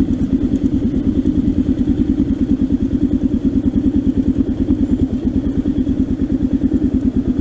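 Trail motorcycle engine idling, with an even, rapid pulse of roughly eight to ten beats a second.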